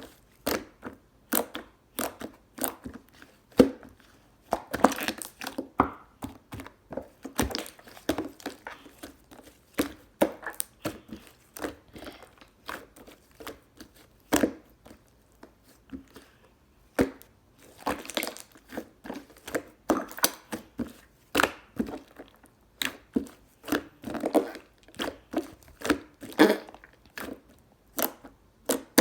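Melon pudding slime being kneaded and pressed by hand, giving a run of sticky clicks and wet pops with brief pauses between squeezes.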